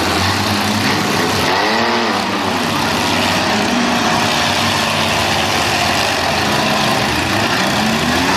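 Demolition derby cars' engines running loudly, several at once, with revs rising and falling, one swell about two seconds in and another climb near the end.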